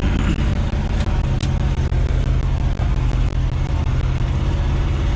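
A 1973 Ford F-250's 360 V8 running steadily under load as the truck drives, with a continuous low drone.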